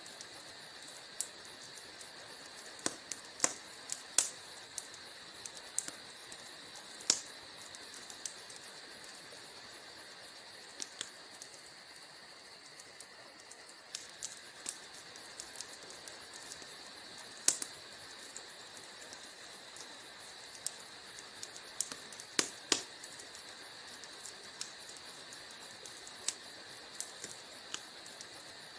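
Wood fire crackling in a fireplace: irregular sharp pops and snaps over a steady soft hiss, with small clusters of louder pops a few seconds in and again past the middle.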